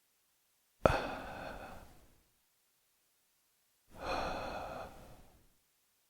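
Death-rattle breathing: two separate rasping breaths. The first starts suddenly about a second in and trails off. The second swells in at about four seconds and fades away.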